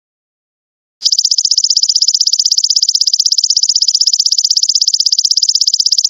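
Belalang emas ('golden locust') insect trilling: a steady, fast, evenly pulsing high-pitched buzz that starts about a second in after silence and cuts off abruptly at the end.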